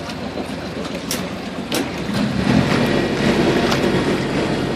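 Small passenger ferry's engine running with water and wind noise around the hull; the low engine rumble grows louder about two seconds in, with a few sharp knocks.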